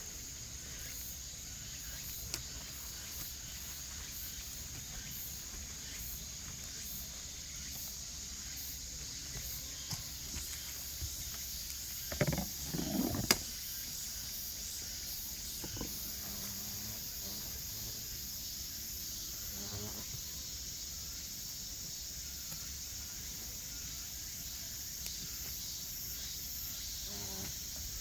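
Steady high-pitched chorus of insects in the summer undergrowth, with a brief rustle and a sharp click about twelve to thirteen seconds in.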